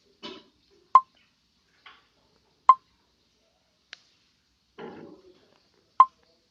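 Three short, sharp clicks, about a second in, near the middle and near the end, with faint soft rustling between them.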